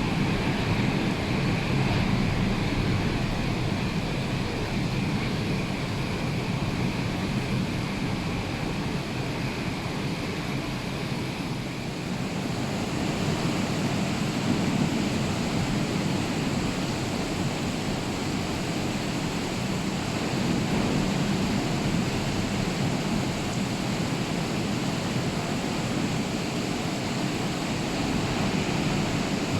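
Rough sea surf breaking continuously, mixed with rain and wind. It is a steady wash of noise that brightens a little in its hiss about twelve seconds in.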